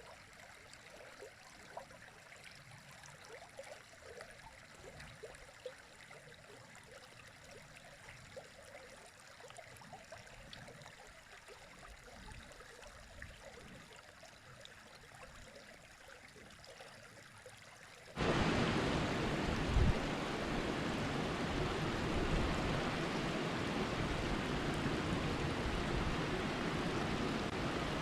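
River water: a quiet, trickling and gurgling stream, then, about two-thirds of the way in, an abrupt change to a much louder, steady rush of water.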